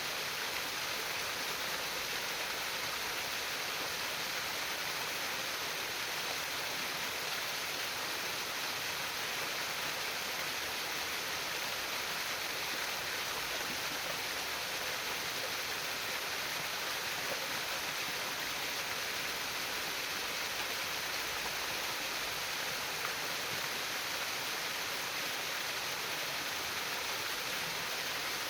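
Water trickling and splashing steadily over stones in a shallow stream, an even, unbroken rush of water.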